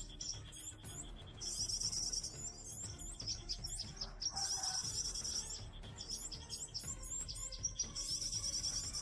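Small birds chirping and calling, with a dense high trill that comes three times, each about a second long.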